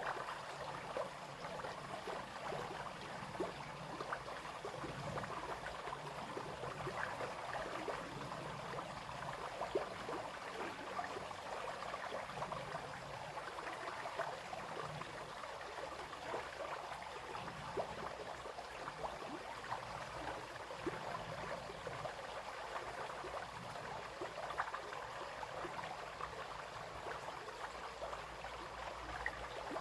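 Small brook flowing and babbling over stones: steady splashing and trickling with many small quick droplet sounds.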